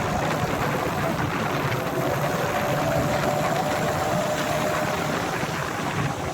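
Motorcycle engine running steadily on the move, with a steady rush of road noise and a few held engine tones.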